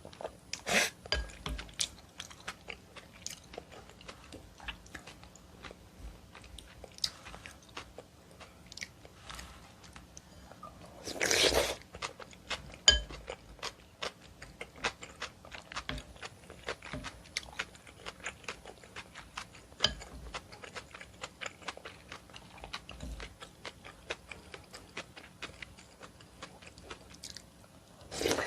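Close-miked eating of seaweed oyster soup: chewing with many small wet mouth clicks, and one longer, louder burst of noise about eleven seconds in.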